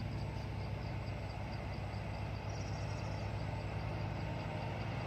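Heavy truck's diesel engine pulling up a mountain grade, a steady low drone that holds constant throughout.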